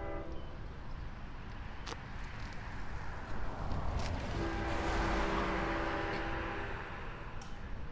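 Nathan K5LA horn on LIRR diesel locomotive 502 sounding. One blast cuts off just after the start, and a second long blast comes about four and a half seconds in and lasts nearly three seconds, over the noise of the moving train.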